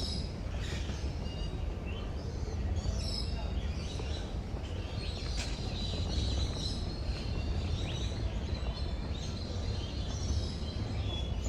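Several birds chirping and calling in short high notes, one of them holding a thin high note for a couple of seconds midway, over a steady low background rumble.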